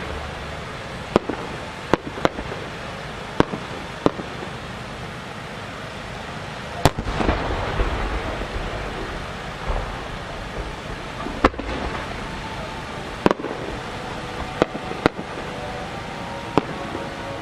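Aerial fireworks: sharp single bangs every second or two, and about seven seconds in a large 12-inch (size 10) shell bursts with a boom that rumbles and echoes on for a few seconds.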